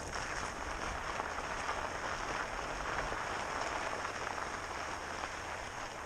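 Steady rushing noise of an electric fatbike being ridden: tyres rolling and air moving past, with no sharp events.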